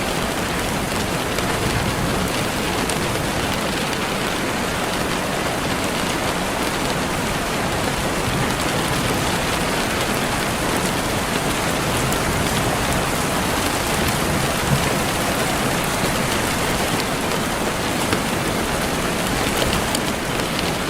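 Steady rainfall, an even hiss of rain with scattered drop ticks throughout.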